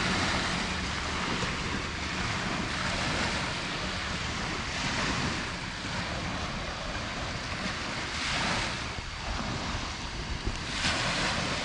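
Light surf washing on a sandy beach, with a swell of hiss each time a small wave breaks, four times over, and wind buffeting the microphone underneath.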